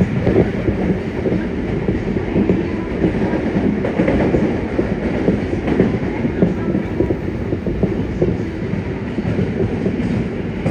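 Yokohama Municipal Subway 3000N train running at speed, heard from inside the car: a steady rumble of wheels rolling on the rails.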